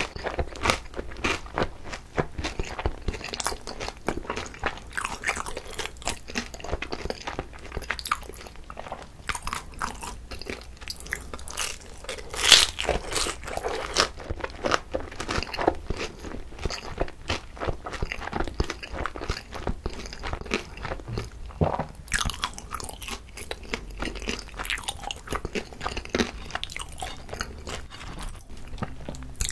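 Close-miked chewing of pan-fried pollock roe dumplings, the crisp fried wrappers crunching in a quick run of small crackles, with one louder crunch about twelve seconds in.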